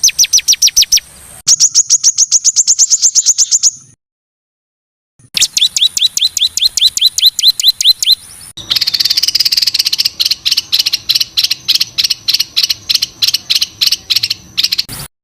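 Songbirds singing rapid 'tembakan' series of sharp, evenly repeated notes, the kind used as masteran material for training contest birds. Several runs are spliced together with abrupt cuts and a short silence partway through; the last run is a slower, harsher rattle.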